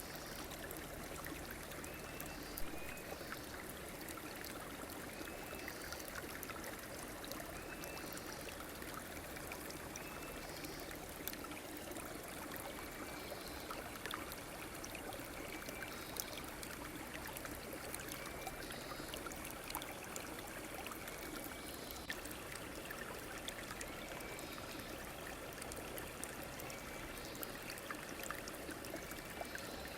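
River water flowing steadily, a continuous rush with small ticks and splashes. A short high call repeats about every two seconds through it.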